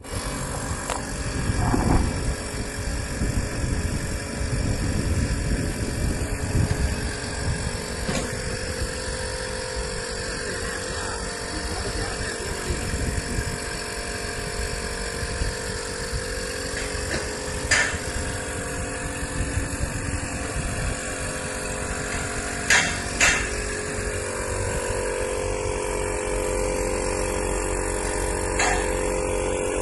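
Track pin and bush repair machine running with a steady motor hum and low rumble, broken by a few sharp metal clacks. About 24 seconds in, the hum turns steadier with a stronger pitched tone.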